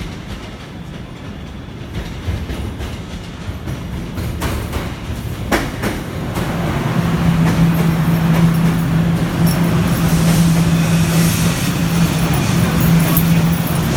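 Guangzhou Metro Line 1 train running on the rails, with a few sharp clicks early on. It grows louder about halfway through, and a steady low hum comes in and holds.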